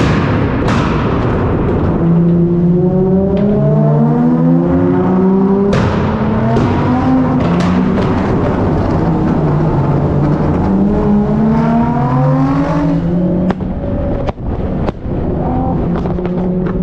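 Car engines revved hard and run up through the revs, the pitch climbing again and again and then dropping back, over a dense noisy wash of exhaust and tyre noise.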